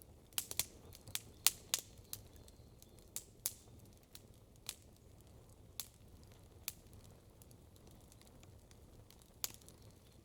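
Campfire crackling: burning wood giving off irregular sharp pops, a quick cluster in the first couple of seconds, then sparser single pops, over a faint low background.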